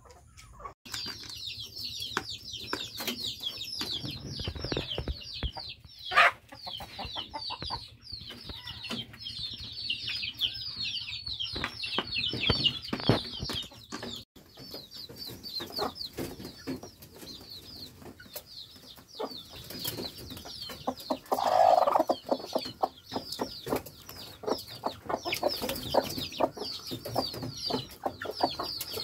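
Chickens clucking and calling, with a continuous chorus of rapid, high, falling chirps and scattered short knocks. A louder, lower call stands out about three quarters of the way through.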